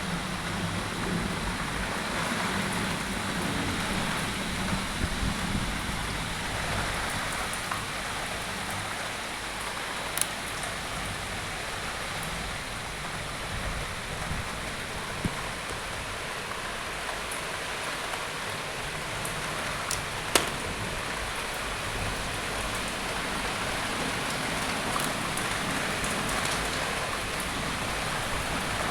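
Steady rain falling during a thunderstorm, with a few sharp ticks about a third and two thirds of the way through.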